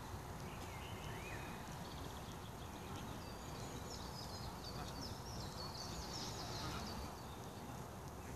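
Faint outdoor background noise with birds chirping. A few chirps come about a second in, then a run of high twittering notes through the middle.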